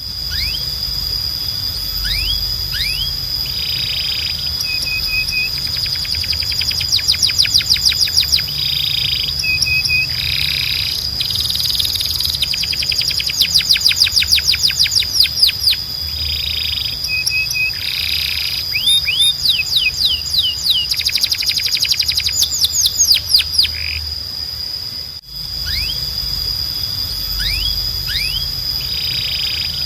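Timbrado canary singing fast rolling trills and short held notes in repeated phrases, over a steady high tone and a low hum. The song breaks off briefly about 25 seconds in, then the same phrases start again, as a looped recording would.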